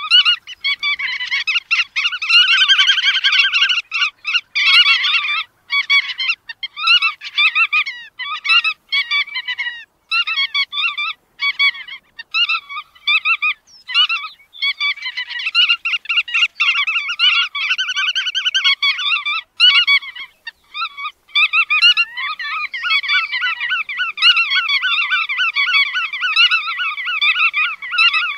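A flock of bar-tailed godwits calling: rapid, overlapping, nasal chattering calls, with a few short breaks.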